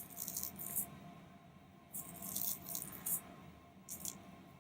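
Soft scraping and rustling of carbon powder being pressed into the small plastic case of a toy salt-water battery, in short bursts near the start, through the middle and once more near the end.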